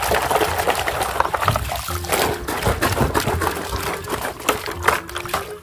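Muddy, soapy water sloshing and splashing in a plastic bucket as a toy is scrubbed by hand, with many small wet clicks and splashes.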